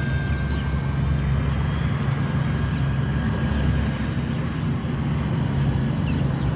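Propeller airplane engine running steadily, a constant low hum under a rushing noise.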